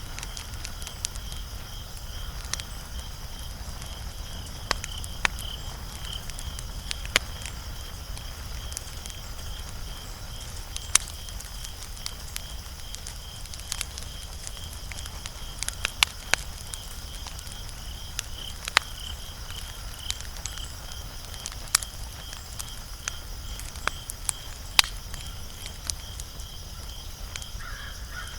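Wood fire crackling, with sharp irregular pops every second or so over a low rumble. A steady high-pitched trill runs underneath.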